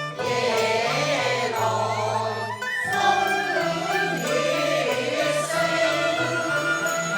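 Cantonese opera singing: a group of voices singing together in chorus over the opera's instrumental accompaniment, the voices coming in right at the start after an instrumental passage.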